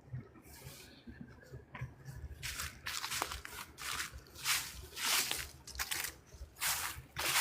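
Footsteps crunching through dry fallen leaves at a walking pace, starting about two and a half seconds in.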